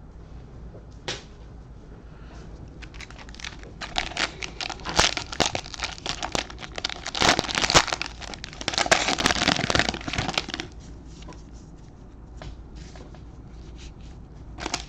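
Plastic trading-card pack wrapper being torn open and crinkled, in a run of crackles about four seconds in that stops about ten and a half seconds in.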